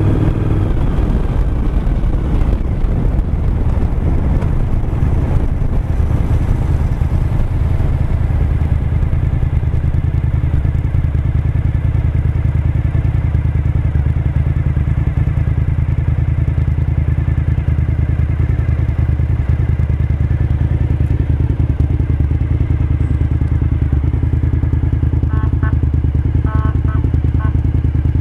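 Suzuki SV1000S 90-degree V-twin engine running under way. Its pitch shifts over the first few seconds, then holds steady at cruising speed.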